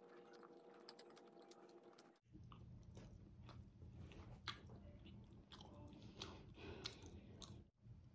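Close-up chewing of soft spaghetti carbonara: faint wet mouth clicks and smacks. A low steady hum comes in about two seconds in.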